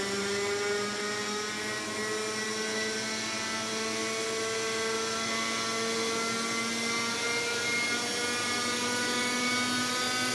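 Remote-controlled model helicopter's motor and rotor whining steadily, the pitch climbing gradually as the rotor spins up toward lift-off.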